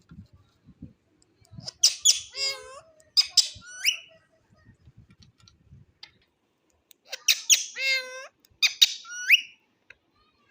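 Indian ringneck parakeet calling in two bouts, each a run of sharp squawks followed by whistled notes that slide in pitch, the same phrase repeated about five seconds apart.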